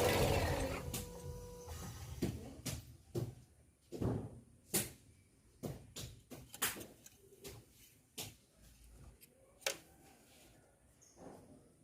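Toyota Yaris engine running, then dying away within the first second or so as it is switched off. It is followed by a dozen or so irregular light knocks and clicks, like things being handled or closed.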